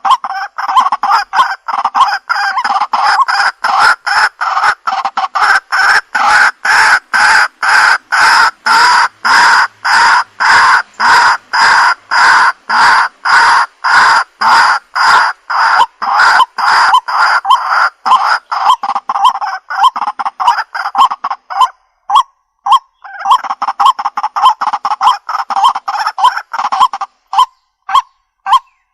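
Recorded calls of a waterhen (jal murgi), loud notes repeated about twice a second in a long unbroken run; after a short pause about three-quarters of the way through the run starts again, then breaks into spaced single notes near the end.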